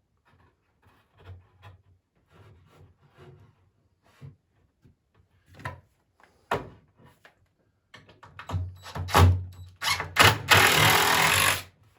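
Wooden knocks and thunks of poplar swing parts being handled and set in place, growing louder and busier toward the end, then a loud even rasping noise lasting about a second and a half.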